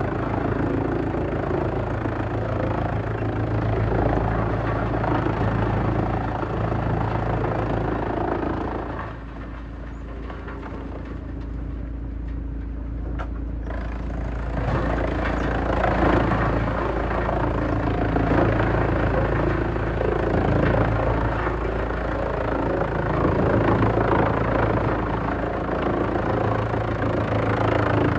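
Heavy-duty industrial wood chipper running under load: a steady low engine drone under dense crunching and grinding as wood is fed through. About nine seconds in, the grinding drops away for about five seconds, leaving the machine running on its own, then picks up again as more wood goes in.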